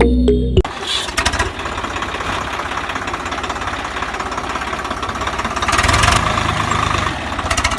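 A small motor-driven machine running with a fast, dense rattle, cutting in about half a second in after a bit of music and stopping just at the end.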